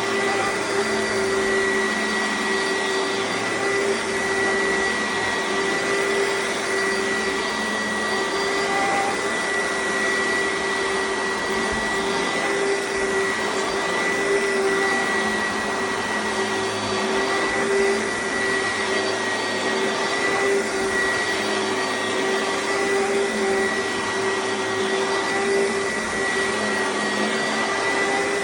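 Oreck XL upright vacuum cleaner running steadily, a constant motor whine with one high tone and one lower tone held level throughout.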